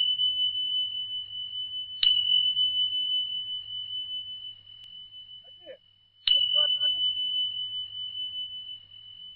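A high, pure bell-like tone, struck twice, each strike ringing on and slowly fading, over a faint low hum.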